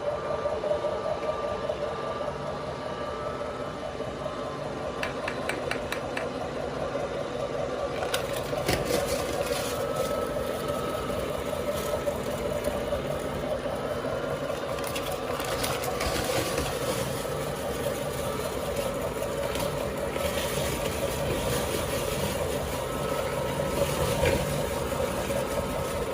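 Meat grinder running steadily while grinding cookies, with a constant hum and many short crunching clicks that start about five seconds in.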